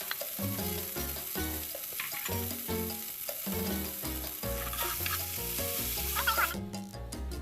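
Food sizzling in a hot frying pan, a steady hiss that cuts off suddenly near the end.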